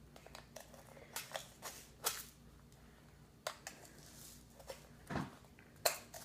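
A run of small clicks, taps and brief scrapes, loudest about two seconds in and again near the end: a small spoon tapping potassium iodide powder into the bottles as they are handled.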